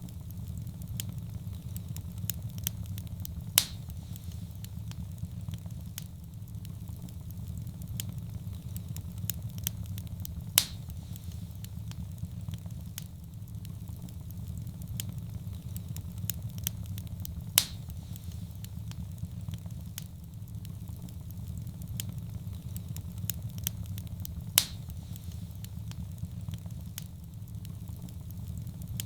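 Wood fire burning in a fireplace: a steady low rumble of flames with constant small crackles and four louder pops, about seven seconds apart.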